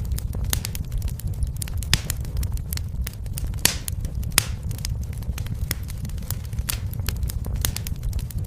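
Wood fire burning in a fireplace: a steady low rumble under irregular crackling, with a few louder pops and one short hissing spit in the middle.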